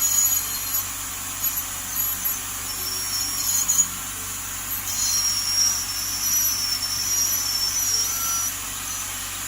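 Woodpecker U6 ultrasonic dental scaler running with its water spray on, at a raised vibration setting: a steady hiss with thin high-pitched whines. A new, higher whine joins about five seconds in.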